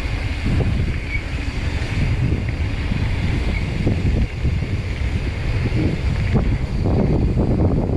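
Wind buffeting the microphone of a mountain biker's camera while riding a dirt trail, over a steady rumble with short rattles from the tyres and bike on the rough ground.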